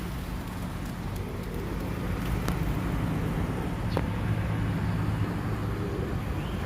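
Steady low rumble of outdoor background noise, with two faint clicks partway through.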